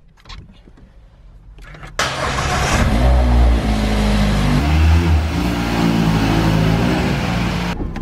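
Mazda MX-5 roadster's four-cylinder petrol engine starting about two seconds in, then revving, its pitch rising and falling.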